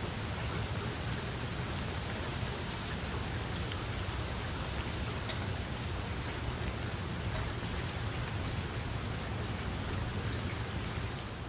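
Steady rain falling, a dense hiss with scattered individual drop ticks.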